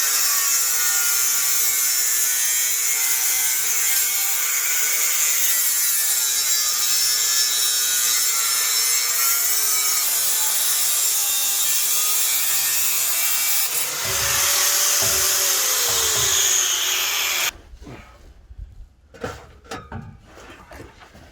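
A power tool cutting through the old 4-inch steel exhaust pipe: a loud, steady cut whose motor pitch dips and rises as it bites. It stops about 17 seconds in, followed by a few light knocks and handling sounds.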